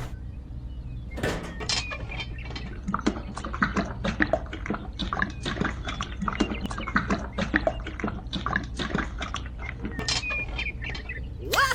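Irregular clicking and clinking of small hard objects over a steady low hum. Just before the end, a pitched tone sweeps up and then falls.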